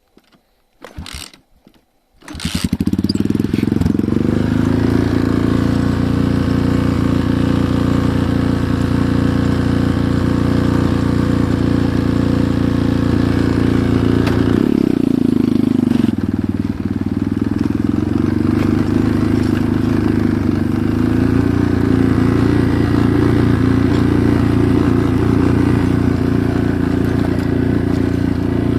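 Enduro motorcycle engine starting about two seconds in after a few faint clicks, then running steadily at idle. Its note drops about halfway through and then settles a little higher again.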